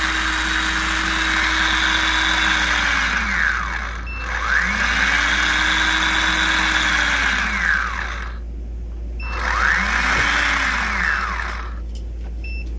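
Electric propeller motor of a Chinese sea scooter, run out of the water on its new pair of 12 V batteries wired in series, showing that the battery fix works. It whines up to speed, holds, and winds down three times, each run shorter than the one before.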